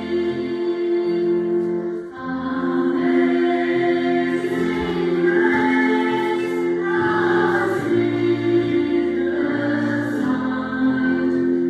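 Church choir singing a hymn medley in several parts, with long held notes that change every second or two.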